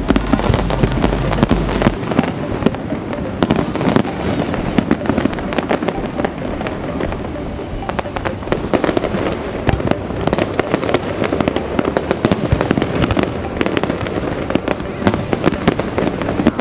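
Fireworks going off in a dense run of rapid crackles and bangs.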